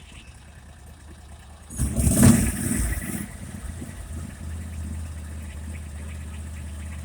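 Argo amphibious ATV's engine running. About two seconds in comes a loud rush of noise lasting a second or so, and after it the engine settles into a steady low note.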